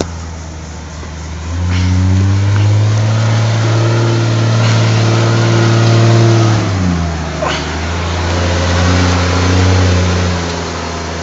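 Toyota Land Cruiser's engine revving under load as it climbs a steep dirt track. The revs rise about a second and a half in, hold, drop back near the middle, then rise again.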